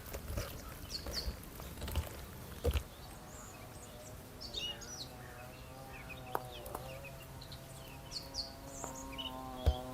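Small birds chirping, with a few sharp knocks in the first three seconds and another near the end. A steady low hum with several overtones sets in about four seconds in.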